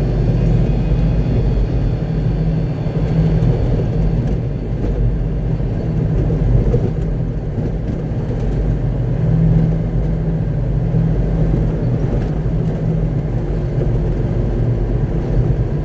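Concrete mixer truck running, heard from inside the cab: a steady low engine drone.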